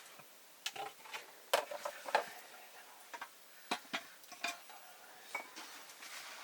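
Metal cooking utensils knocking and scraping against a pot: a run of irregular sharp clinks and taps, about a dozen, spread across the few seconds.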